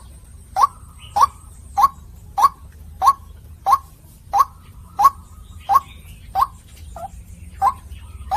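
White-breasted waterhen (ruak-ruak) calling: a short, sharp note repeated steadily, about one and a half calls a second.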